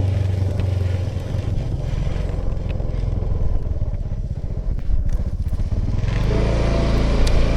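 Honda Vision scooter's single-cylinder engine running at riding speed, with road and wind noise. The engine note grows fuller and a little louder about six seconds in.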